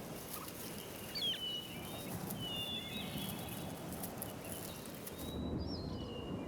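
Outdoor bush ambience with a few short, high whistled bird calls, including one about a second in and another near the end, over a steady low background.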